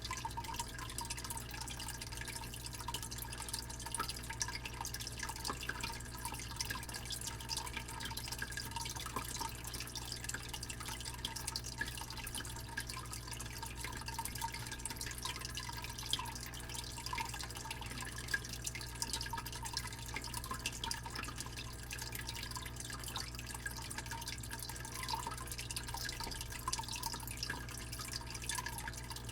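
Fish tank pump giving a steady low hum under continuous trickling and dripping water, with small irregular splashes and bubbles.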